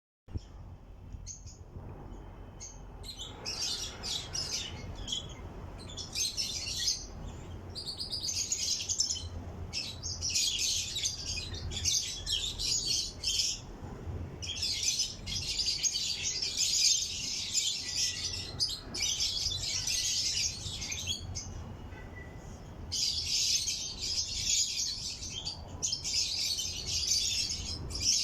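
Lovebird chatter: rapid, high chirping in bouts of a few seconds with short pauses between them.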